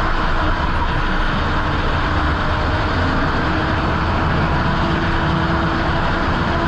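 Motorcycle riding at a steady speed: loud, even wind and road noise on the microphone with a constant engine drone beneath, holding unchanged throughout.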